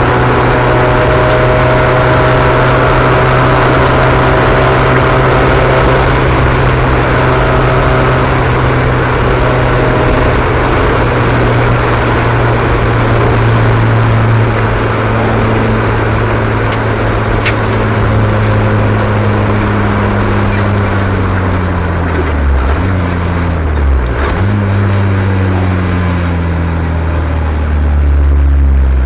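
Several small race car engines running together at steady speed. About two-thirds of the way through, the main engine's pitch dips sharply twice, then slides steadily lower as it slows.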